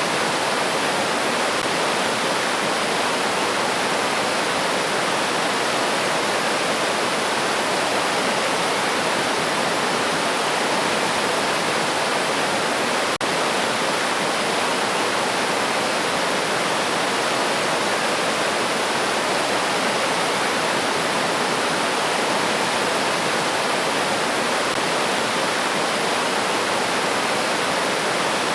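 River water rushing and splashing in a steady, unbroken flow. There is a tiny click about halfway through.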